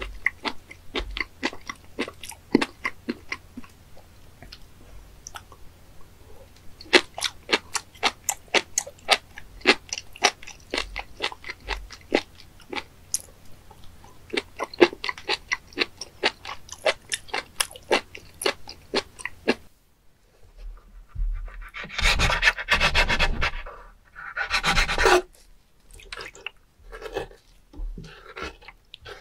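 Raw spoon worm (fat innkeeper worm) sashimi chewed close to the microphone: a long run of crisp, crunchy chewing clicks. After a short break about two-thirds in come louder wet rasping and squishing sounds as a whole spoon worm is cut with a knife on a wooden board.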